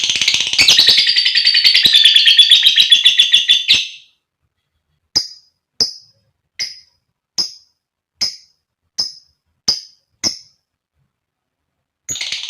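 Female lovebird calling: a fast, dense chattering trill for about four seconds, then after a pause a run of eight sharp single chirps evenly spaced about two-thirds of a second apart, with the chattering starting again near the end.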